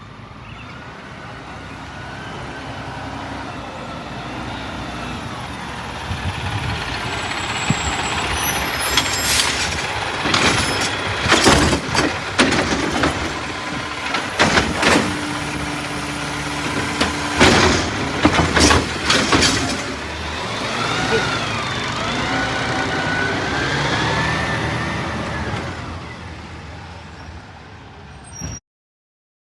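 Diesel engine of a Peterbilt McNeilus side-loader recycling truck running and growing louder as it pulls up. It is followed by a run of loud clanks and crashes as the truck works. Near the end there is a whine that rises and falls.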